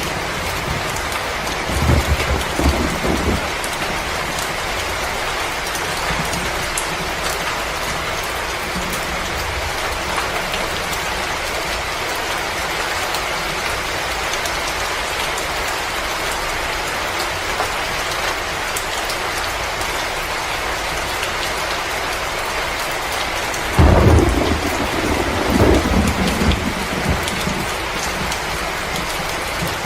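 Fireplace fire crackling with a steady hiss and fine pops. Low rumbles come briefly about two seconds in and again for a few seconds near the end.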